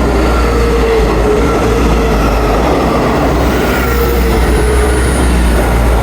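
Class 159 diesel multiple units running with their diesel engines under way: a steady low rumble with droning tones that waver slightly in pitch.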